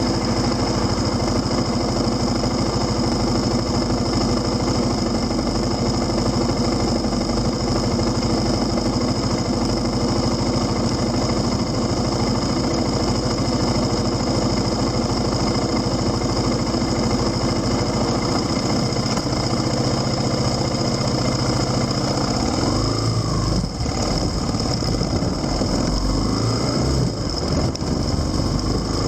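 Motorcycle engine idling steadily, then revving, its pitch rising and falling a couple of times over the last few seconds.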